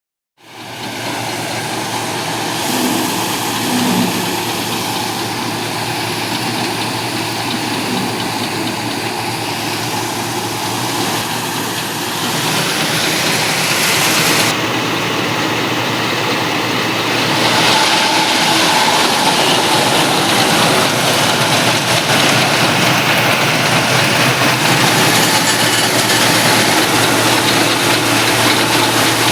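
Mahindra 475 tractor's diesel engine running steadily, with a dense mechanical rush over it. It starts suddenly just after the beginning and grows louder about 12 seconds in and again about 17 seconds in.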